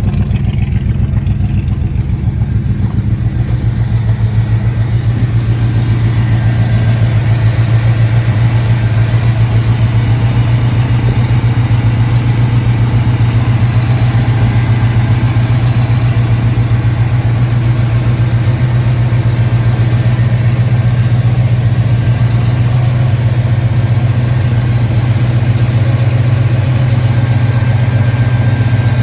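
1978 Pontiac Firebird Trans Am's V8 idling steadily in park, just after starting with the engine not fully cold. The low, even idle firms up slightly in the first few seconds and then holds steady.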